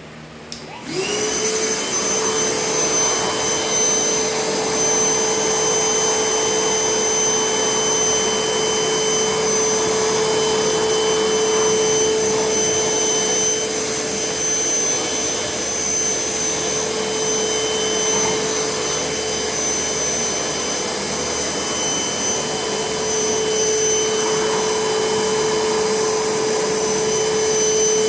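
Vacuum cleaner switched on with a click, its motor spinning up within a second to a steady, loud whine and running on at full speed as it vacuums dirt off a subfloor.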